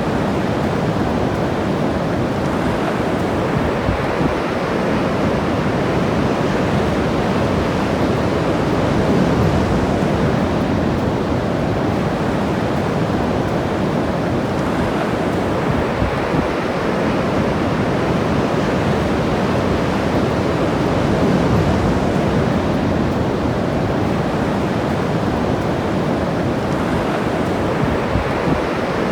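Ocean surf washing onto the shore as a steady rush, swelling a little about a third of the way in and again past two-thirds.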